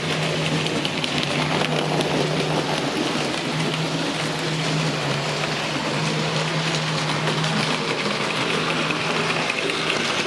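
Hornby 0-4-0 model locomotive running on its track: a steady motor hum under a continuous rattle of wheels on rail.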